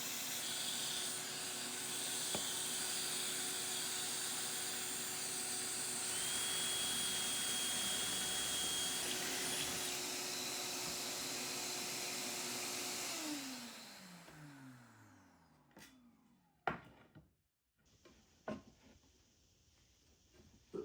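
An electric power tool running steadily, then switched off about thirteen seconds in, its motor falling in pitch as it spins down. A few separate knocks follow.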